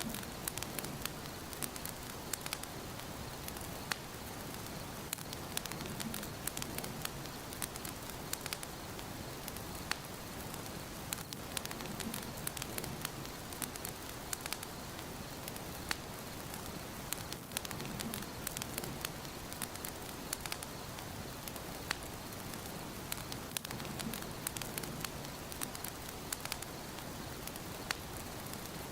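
Wood fire burning in a fireplace: a steady hiss with frequent sharp, irregular crackles and pops, and a soft low rumble that swells about every six seconds.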